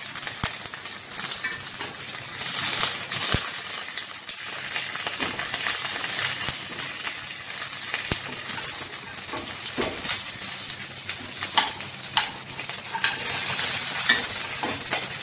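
Banana-leaf fish parcels frying in mustard oil in a nonstick kadai, sizzling steadily, with scattered clicks and scrapes of a wooden spatula and a steel spoon against the pan as the parcels are turned over.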